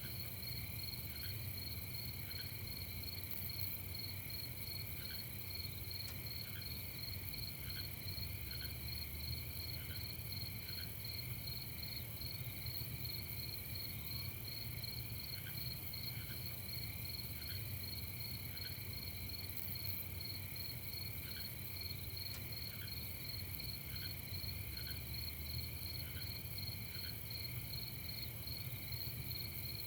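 Chorus of crickets trilling steadily at several pitches. Short single chirps from another caller are scattered irregularly through it, over a low steady rumble.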